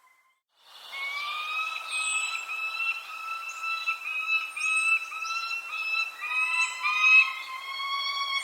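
Birds singing: after a brief dropout at the start, runs of repeated whistled notes come in, with short high chirps about once a second.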